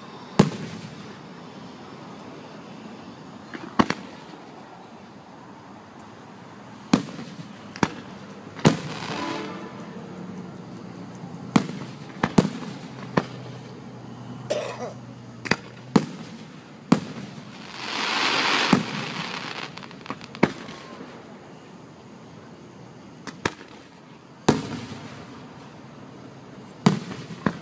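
Aerial fireworks shells bursting overhead: sharp bangs every second or few seconds, some with a rumbling echo trailing after, and a longer rushing hiss about two thirds of the way through.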